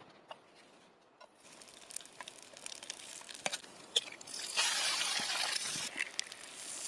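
Salo and eggs frying in a pan over a Finnish candle split-log fire: scattered crackles and pops, with a loud sizzle about four seconds in that lasts about a second and a half.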